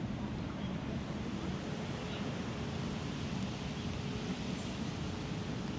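Steady beach ambience of surf washing and wind on the microphone, with a faint steady hum underneath.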